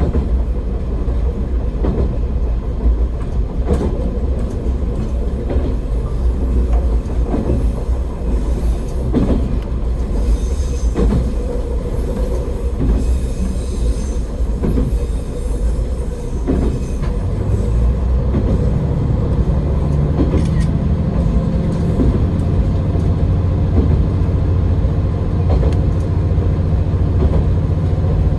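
AN-8800 diesel railcar running along the line: a steady low rumble of engine and wheels, with a knock about every two seconds as the wheels pass over rail joints. From about two-thirds of the way in, a steadier, louder engine note joins, as the engine works harder.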